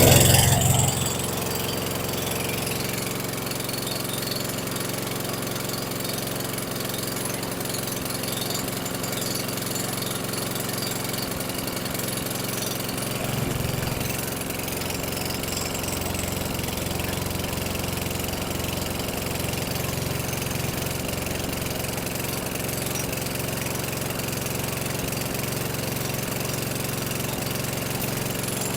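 Toro Recycler walk-behind lawn mower's small single-cylinder engine running steadily at speed after a start on starting fluid. It is loudest at the very start, then settles, with a brief swell about 13 seconds in.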